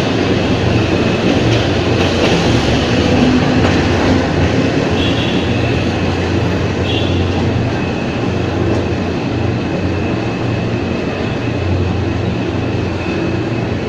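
Former JR 203-series railcar running steadily along the track: a continuous rumble of wheels on rail with a faint steady high whine over it.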